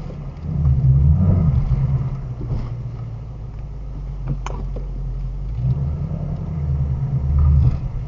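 Low engine and road rumble from a 2018 Shelby GT350 with its 5.2-litre flat-plane-crank V8, swelling and easing twice, with one brief high chirp about four and a half seconds in.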